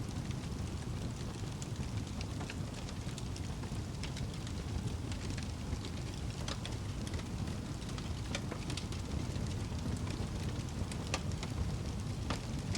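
Wood fire burning in a fireplace: a steady low rumble of flames with scattered sharp crackles and pops, a few each second.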